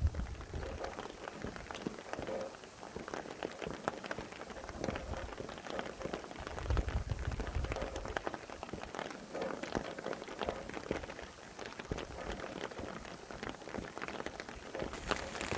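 Steady rain with many individual drops ticking close by, and a low rumble of wind gusting about seven seconds in.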